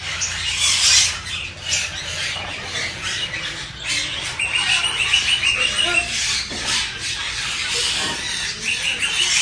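A flock of parakeets and parrots chattering and squawking together, with one bird giving a fast run of repeated high notes about four and a half seconds in.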